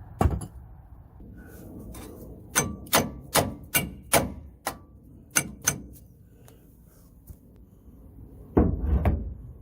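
Sledgehammer striking a Dodge Ram 1500's rear axle shaft to drive it out: one blow, then a run of about eight sharp, ringing metal-on-metal blows, two to three a second, and a heavier, duller thud near the end. The axle is stuck because its failed wheel bearing has welded itself to the shaft.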